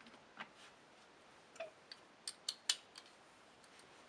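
Faint, scattered clicks and light taps from hands working on the vacuum cleaner's metal parts, with three sharp clicks close together about two and a half seconds in.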